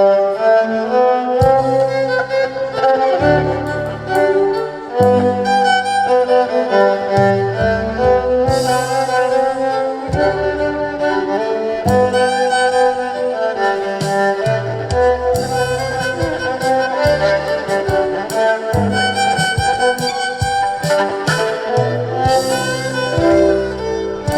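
Band music with a violin carrying the melody over a moving bass line and a steady drum beat.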